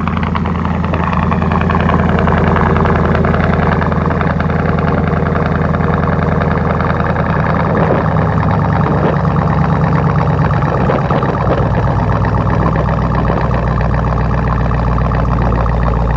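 2003 Mercedes S55 AMG's 5.4-litre supercharged V8 idling steadily just after a cold start, the exhaust loud and throaty with the mufflers, resonator and secondary cats removed.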